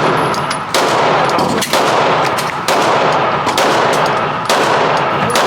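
Loud gunshots from a firearm at a shooting range, fired about once a second, each shot trailing off in a long echo.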